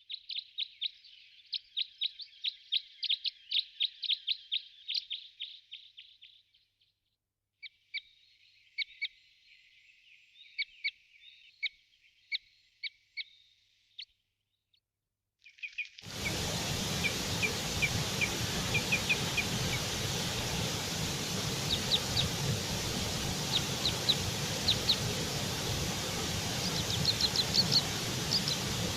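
Birds chirping in rapid series of short, high calls, with a pause between runs. About sixteen seconds in, a steady rushing background noise starts, with more chirps over it.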